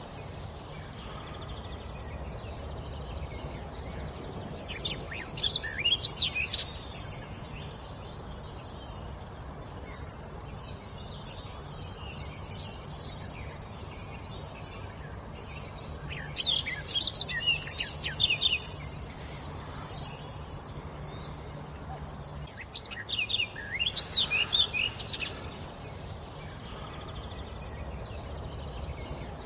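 A songbird singing three phrases of quick, sweeping high notes, each lasting two to three seconds, with long pauses between them.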